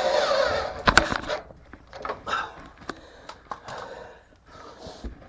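Power drill driving screws, running with a steady whine that stops about a second in with a sharp click, followed by scattered small clicks and knocks of handling.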